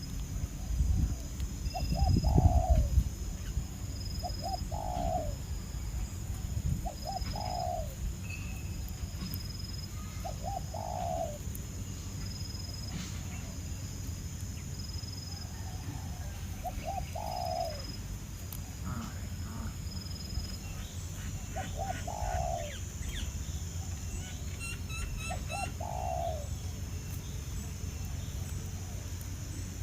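A dove cooing the same short low phrase, a couple of quick notes and then a longer falling note, about every three seconds, over a steady high-pitched whine. Small birds chirp briefly past the middle.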